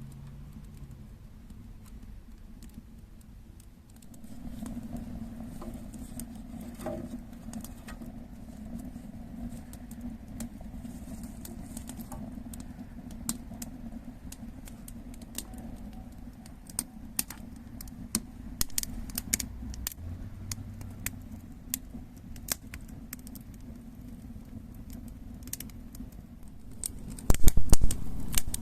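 Wood fire crackling in a chiminea, a steady low rush with scattered sharp pops and snaps. Near the end comes a short loud burst of knocks and clatter.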